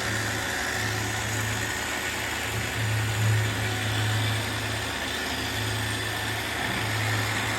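Robot vacuums running: a steady motor and suction whir with a low hum that drops out and comes back several times.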